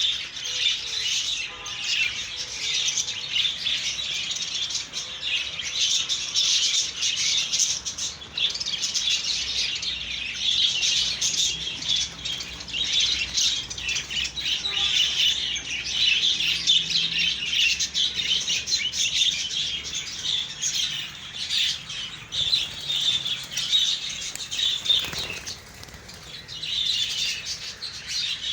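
A colony of budgerigars chattering continuously, many birds overlapping in fast chirps and warbles, dipping briefly near the end.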